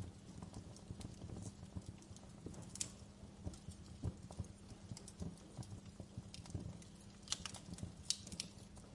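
Wood fire crackling in a fireplace: irregular small pops and ticks over a low steady rumble, with a few sharper, louder snaps about three seconds in and near the end.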